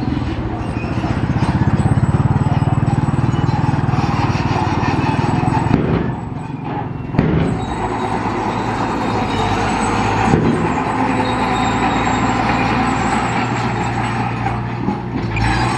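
Heavy construction machine's diesel engine running steadily, with a short dip in level about six seconds in and a sharp knock just after.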